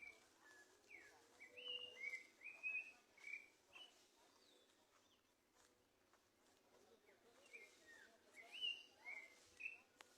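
A songbird singing two phrases of short, quick notes that slide up and down in pitch, the second phrase starting about four seconds after the first ends.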